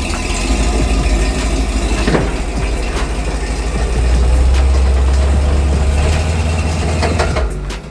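Old Ford pickup truck's engine running with a low rumble, growing louder about four seconds in and easing off near the end.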